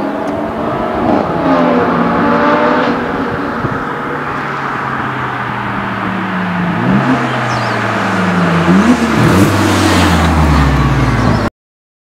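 Performance car engine running through its exhaust at varying revs, with quick rises in pitch twice and the revs falling away, until the sound cuts off suddenly near the end.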